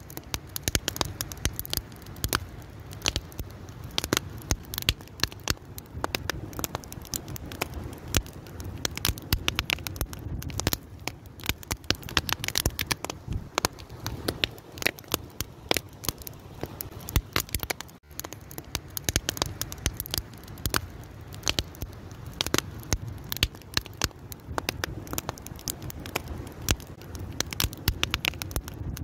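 Wood fire crackling, with dense irregular sharp pops and cracks over a steady low rumble of the flames.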